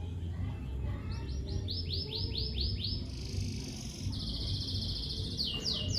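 Lovebird chirping: about a second in, a quick run of short, high, falling chirps, then a harsh buzzy note and a trill, ending with three more sharp falling chirps. A steady low rumble runs underneath.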